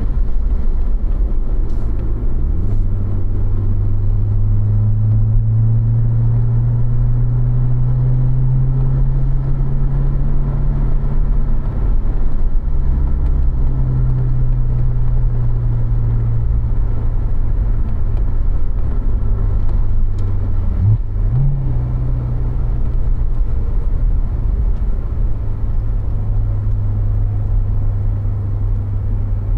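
2015 Corvette Z06's supercharged LT4 V8, heard from inside the cabin, running steadily at low revs around 1,500–2,000 rpm at low road speed. About two-thirds of the way through, the engine note dips and quickly rises again as the car shifts down from third to second gear.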